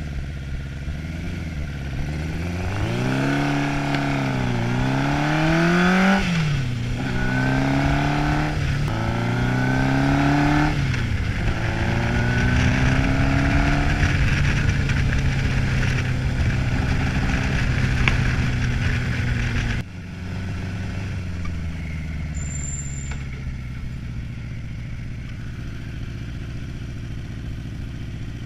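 Old Honda motorcycle engine accelerating: its pitch climbs and falls back at three quick gear changes, then holds steady at cruising speed. About two-thirds through the level drops suddenly and the engine runs on lower and quieter.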